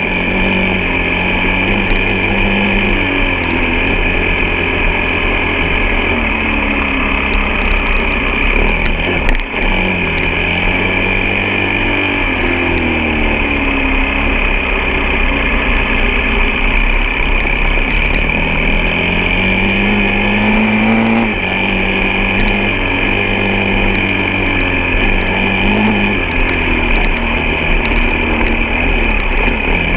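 Off-road motorcycle engine running under way, its pitch rising and falling over and over with the throttle and gear changes, with a brief dip about nine seconds in, over a steady high hiss.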